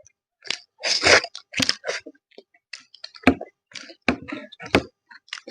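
Close-miked eating of fish and rice: chewing with irregular short clicks and smacks, with brief pauses between them.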